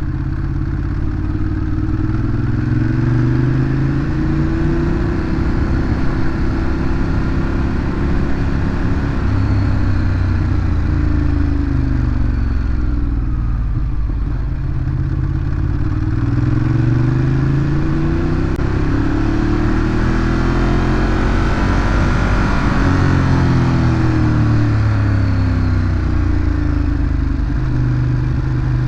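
Ducati Monster 821's L-twin engine through its stock exhaust while riding, the engine note rising and falling again and again as the bike accelerates and eases off, over a steady rush of wind and road noise.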